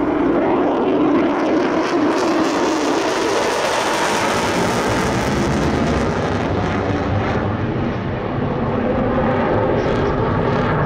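F-35 Lightning II's single F135 afterburning turbofan, a loud jet roar from the demo jet passing the crowd, with a low tone sliding downward in the first couple of seconds as it goes by.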